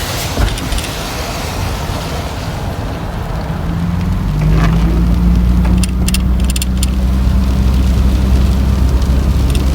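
Van engine and tyre rumble heard from inside the cab while driving. A steady engine hum comes up about three and a half seconds in and rises a little in pitch a second later, with a few quick rattles from the cab a couple of seconds after that.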